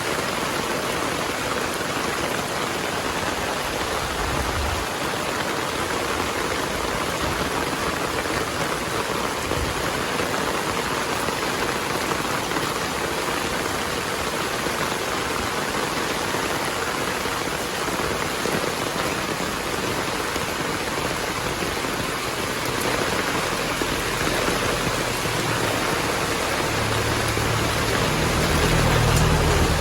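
Heavy rain falling steadily. In the last several seconds a low rumble of thunder builds, loudest just before the end.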